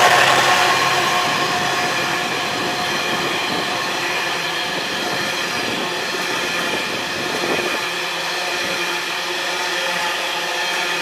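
A long diesel-hauled freight train, led by a Class 70 locomotive, running past at speed. The locomotive's engine is loudest at the start and fades as it goes by. The wagons then roll past with a steady rail and wheel noise, and the low rumble thins out about two-thirds of the way through.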